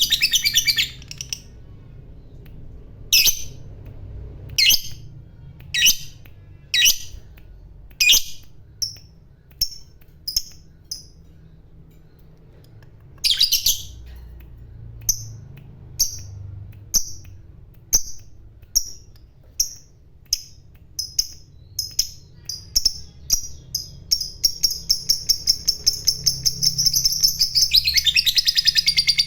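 Lovebird calling: sharp, high chirps, a second or so apart at first, come faster and faster until they run together into a long, rapid chattering trill, the 'ngekek' that fanciers prize in a fighter lovebird.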